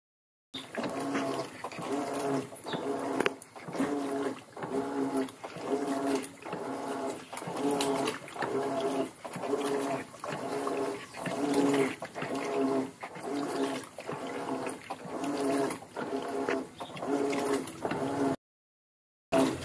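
Electrolux LM08 top-loading washing machine agitating a full load: the motor hums and the agitator swings back and forth in an even rhythm, with the water and clothes churning. The sound cuts out for about a second near the end.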